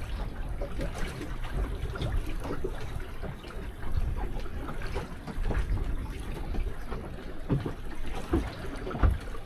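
Water lapping and trickling against the hull of a small fishing boat sitting still on a river, with irregular small splashes and knocks over a steady low rumble.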